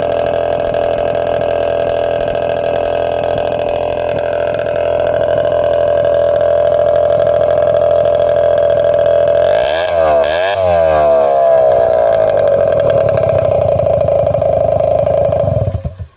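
Honda Super Dio ZX (AF28) scooter's 50 cc two-stroke single running at idle through an aftermarket SEASTYLE shotgun-style muffler, given a short rev about ten seconds in and settling back to idle. The sound cuts off abruptly near the end.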